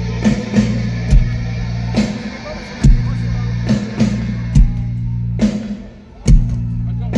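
Live rock band playing an instrumental passage: a steady droning bass and guitar under heavy drum-kit hits about once a second. The sound drops briefly about six seconds in, then a big drum hit brings the band back in.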